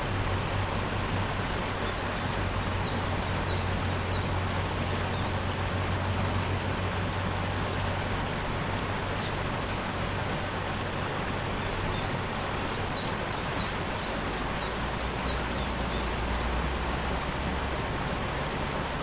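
Steady rushing of a waterfall, with a songbird singing twice: a quick run of about eight high notes, each sliding downward, a few seconds in and again past the middle, with a single note between.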